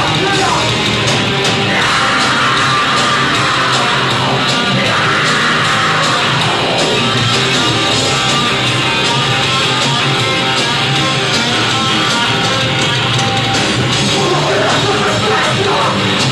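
Live band playing loud heavy rock, with shouted vocals over the instruments.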